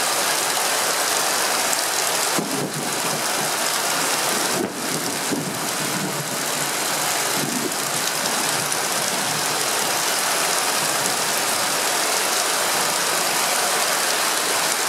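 Heavy thunderstorm downpour: a loud, steady hiss of rain pouring down, with water running off a roof edge.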